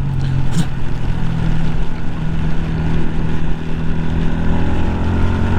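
Yamaha 125 cc single-cylinder motorcycle engine running at a steady cruise, holding an even pitch, under a steady hiss of wind and rain spray.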